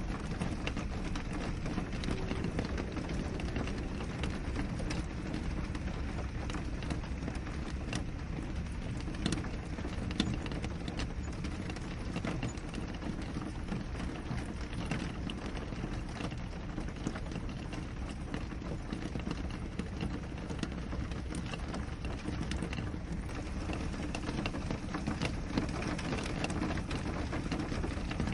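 Steady rain on a window: an even rushing hiss with many small, sharp drop taps scattered throughout.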